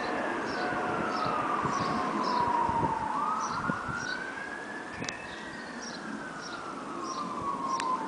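Emergency-vehicle siren on a slow wail: the pitch falls over about three seconds, sweeps back up over the next two, then falls again near the end.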